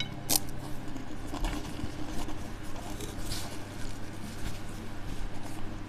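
Close-miked chewing and mouth sounds of a person eating prosciutto and chicken rolls, with small faint clicks. A short rustle of a paper napkin wiped across the mouth comes a little past the middle.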